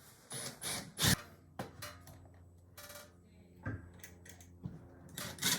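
Irregular clicks, knocks and rubbing from hardware being handled, the loudest knock about a second in and a short scrape near the middle, over a faint steady hum.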